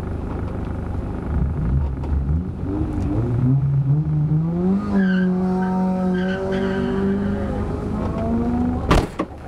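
Rally car engine revving hard: the pitch climbs over a few seconds, then is held high and steady. There is a sharp knock near the end, after which the sound drops away.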